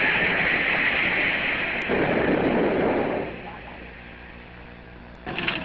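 Hiss and noise of an old archival radio recording. After about three seconds it drops to a quiet stretch with a steady mains hum, and a new noisy segment cuts in near the end.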